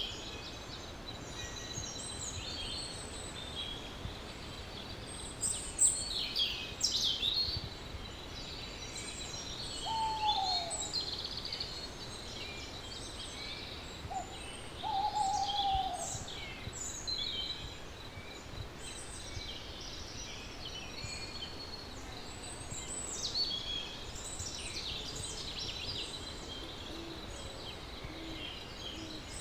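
Wild birdsong: many small birds chirping and trilling throughout, with two lower, falling hoot-like calls about ten and fifteen seconds in.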